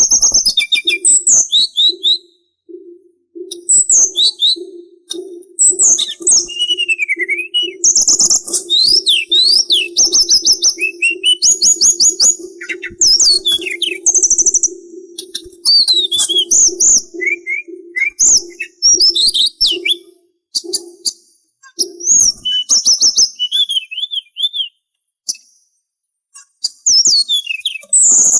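Sulingan songbird singing a loud, varied song of fast high whistled sweeps, trills and chirps, broken by short pauses. Under it, a low rapid pulsing note runs through most of the first two-thirds, then stops.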